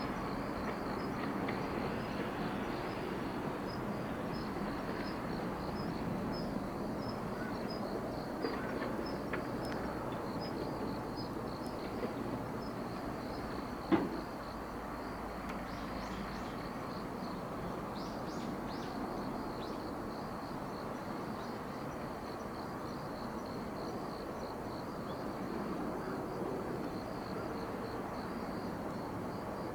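Steady, faint outdoor background noise with a fast, high-pitched chirping running through it, and a single sharp click about fourteen seconds in.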